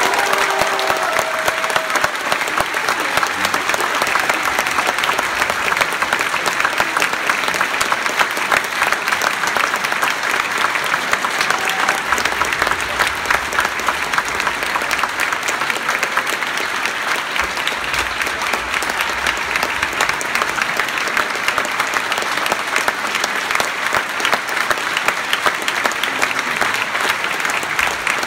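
Theatre audience applauding, a dense steady clapping that runs without a break.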